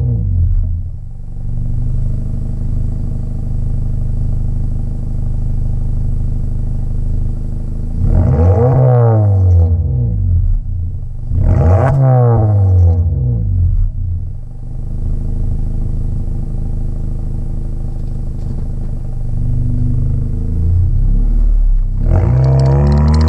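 Honda Civic's K20C2 2.0-litre four-cylinder running through a Flowmaster DBX exhaust fitted in place of the resonator, with a steady note broken by two quick revs that climb and drop back within about two seconds each. A third rev starts near the end.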